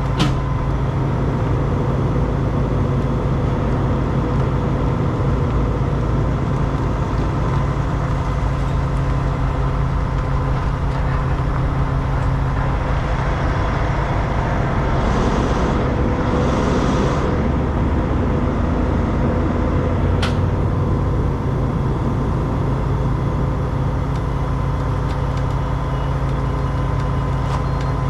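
Heavy diesel truck engine running steadily at an even speed, with a brief hiss of air about halfway through.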